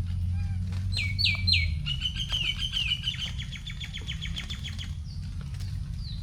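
A forest bird singing: three quick whistled notes falling in pitch about a second in, then a fast run of chirps lasting about three seconds. Scattered drips of rainwater tick on the leaves, over a low steady rumble.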